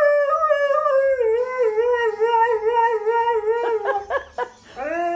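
A dog howling: one long wavering howl, then a few short broken calls about four seconds in, and a new howl starting near the end.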